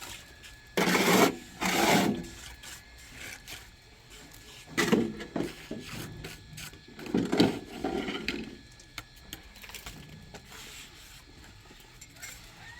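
Rough scraping and rubbing noises in a few separate bursts about a second long. The two loudest come near the start, followed by weaker ones.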